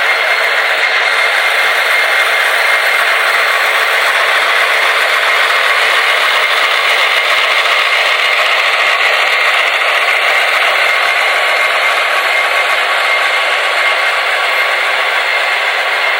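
Several HO scale DCC sound-equipped model diesel locomotives running together, their small speakers playing diesel engine sounds over the whir of their motors. The result is a steady, thin mechanical din with no bass.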